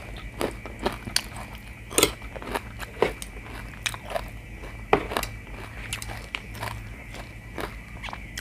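A person chewing and biting mouthfuls of stir-fried chicken giblets with holy basil and rice, heard close up. Irregular sharp clicks and crunches come about once or twice a second.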